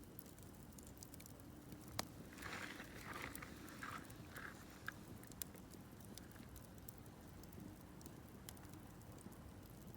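Wood campfire crackling faintly with scattered small pops; a sharper pop about two seconds in is followed by a couple of seconds of hissing, sputtering crackle.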